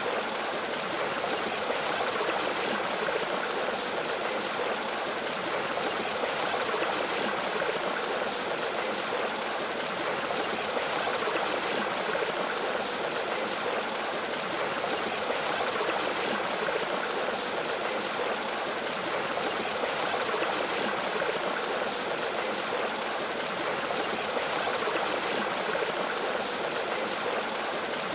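Mountain stream flowing over rocks with a small waterfall: a steady, even rush of water.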